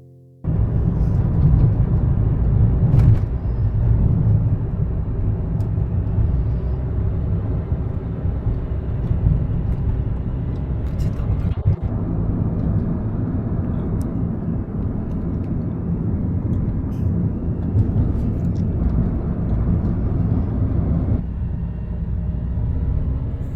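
Steady low rumble of a vehicle in motion, with a few faint clicks over it; the rumble eases slightly near the end.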